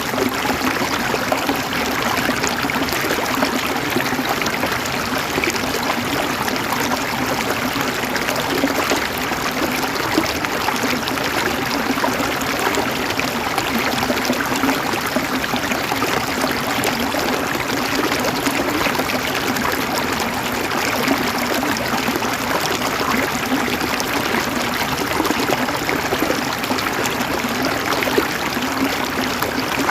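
A river's water flowing and babbling steadily over rocks, a continuous rushing with fine splashing detail.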